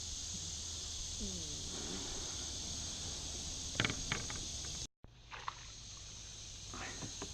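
Steady high-pitched insect chorus over a low rumble of wind, with a few sharp clicks about four seconds in. The sound cuts out completely for a moment about five seconds in, then the insects carry on.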